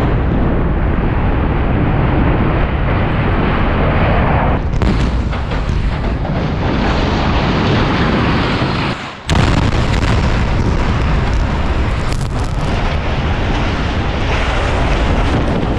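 Explosive demolition of power station structures: a loud, continuous rumbling roar of the blasts and the collapsing steelwork and debris. The roar breaks off abruptly about nine seconds in and starts again at full strength.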